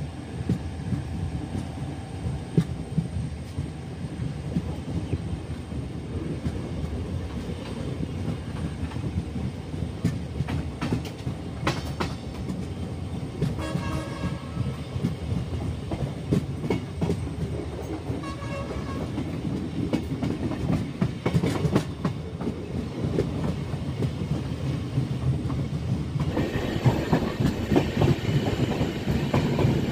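Indian Railways LHB passenger coaches running on the track, heard through an open coach door: a steady wheel rumble with clickety-clack over rail joints and points. Two short high tones come about 14 and 19 seconds in. The rumble grows louder for the last few seconds.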